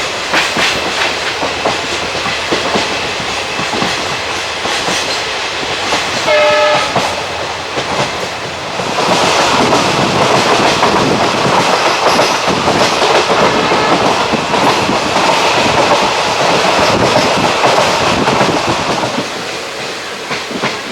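Passenger train of ICF coaches running on the line, wheels clattering over the rail joints. About six seconds in, a short horn sounds for about a second; from about nine seconds the running noise grows louder for some ten seconds before easing again.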